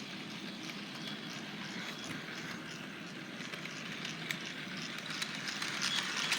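HO-scale model train running along the track: a steady motor-and-wheel rumble with faint irregular clicks from the rails, growing a little louder near the end.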